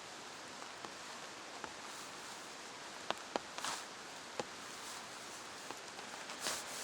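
Steady rain hiss, with a few sharp drip-like taps near the middle and brief rustles.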